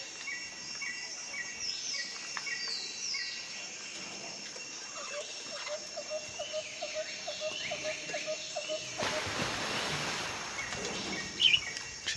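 Budgerigars chirping and warbling in short high calls. About halfway through, a lower call repeats three or four times a second for a few seconds. Near the end comes a couple of seconds of rushing noise.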